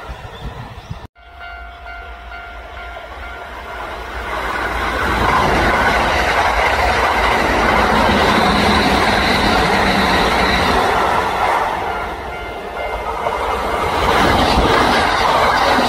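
Kintetsu electric train passing: wheel and running noise builds from about four seconds in and stays loud, easing briefly past the middle before rising again.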